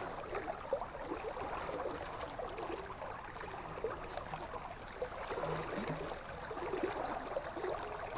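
Shallow river water running steadily with a constant babbling gurgle.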